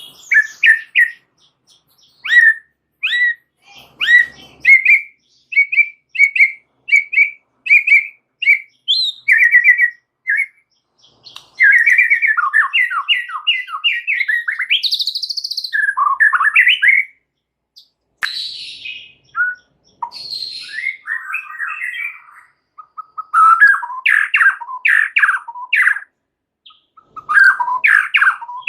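White-rumped shama (murai batu) in full song. It starts with a run of short, sharp whistled notes about one a second, then moves into fast chattering phrases, rising and falling whistles and harsher notes, with brief pauses between phrases.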